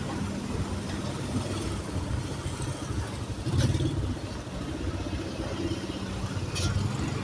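Trans Jogja city bus engine running at low speed as the bus moves through the depot, swelling louder briefly about three and a half seconds in. Two short clicks are heard, one around the swell and one near the end.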